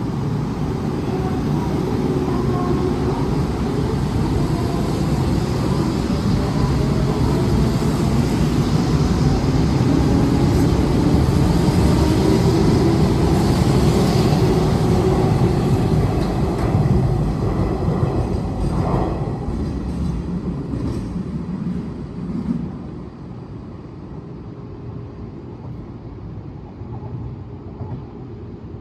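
Hanshin 8000-series electric train pulling out and accelerating away: a loud running rumble with a motor whine that rises in pitch, growing until about halfway and then fading as it leaves. A few wheel knocks over the rail joints come as the last cars go by, before the sound drops off.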